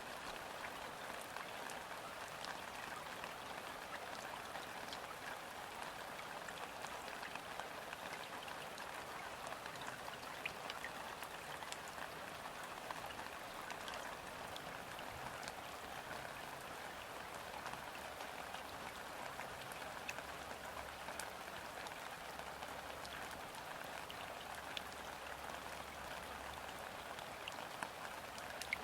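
Steady light rain falling on a river's surface, an even patter with scattered individual drop ticks.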